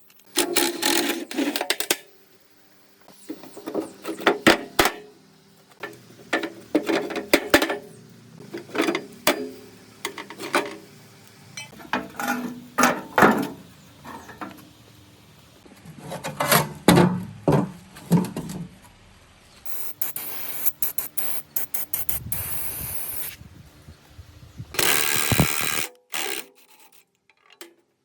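Workshop hand-tool work in short cut-together bursts: scraping, rubbing and tapping strokes, with two longer stretches of steady hissing noise in the last third.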